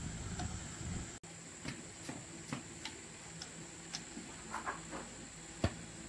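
Irregular light clicks and taps, with one sharper knock about five and a half seconds in, over a faint steady high-pitched whine.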